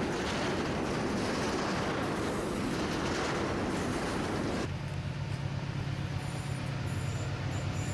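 Freight train passing with a steady, dense rumble. A little over halfway in it cuts abruptly to the low, steady drone of a diesel locomotive, and intermittent high-pitched squeals, typical of rail wheels, join near the end.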